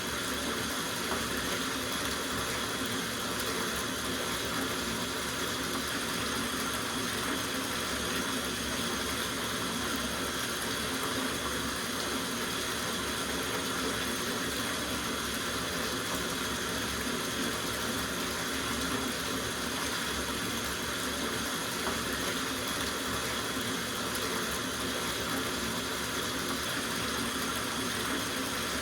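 Water running from a tap into a soaking bathtub as it fills, a steady rushing splash that does not change.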